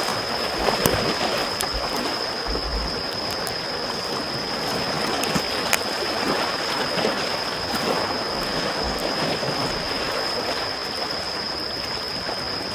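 Small waves washing in gentle swells, with a wood campfire crackling in scattered sharp pops. A steady high-pitched tone sits over both.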